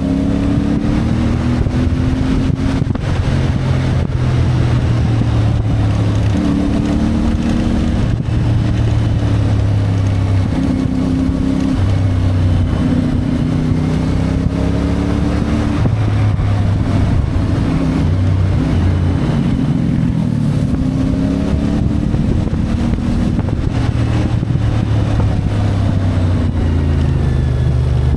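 CFMoto 450MT's parallel-twin engine under way, its revs climbing and dropping again and again as the gears are changed, with wind noise over the microphone.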